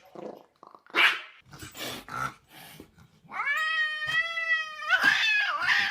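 Cat yowling: one long drawn-out yowl, then a shorter wavering one near the end. It is preceded by a few short harsh noises.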